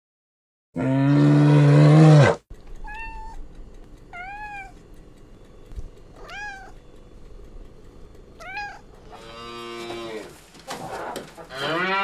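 A loud, low, drawn-out call from a brown bear, then a cat meowing four times in short, high meows, then a cow mooing twice near the end.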